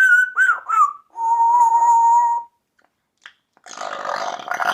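African grey parrot vocalising: quick wavering whistles, then one steady whistled tone held for about a second and a half. About a second later it starts a raspy, burp-like noise.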